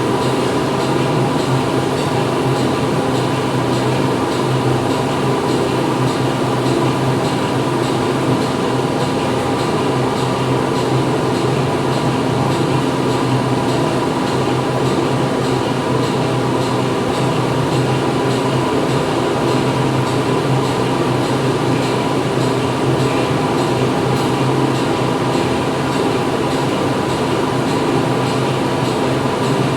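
Steady drone of factory machinery heard from inside the building: a constant dense mechanical noise with a low hum and a few fixed higher tones running over it, unchanging in level.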